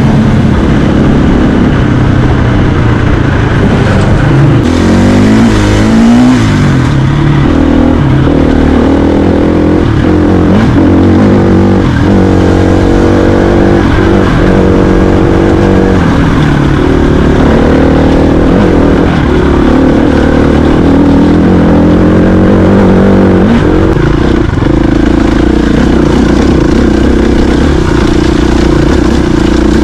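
Dirt bike engine running under way, its pitch rising and falling again and again as the throttle is opened and closed and the gears change.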